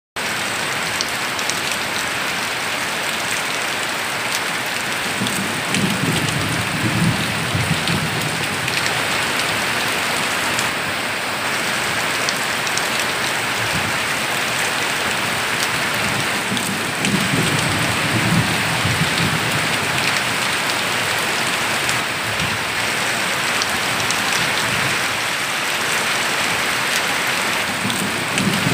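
Heavy rain pouring steadily onto leaves and a roof, running off the roof edge. A low rumble swells up and fades three times.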